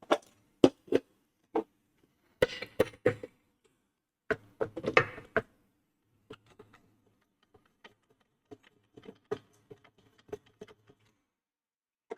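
Irregular clicks and knocks from handling the parts of a Kenwood stand mixer being taken apart. Louder clusters of clatter come in the first five seconds, then fainter, scattered ticks.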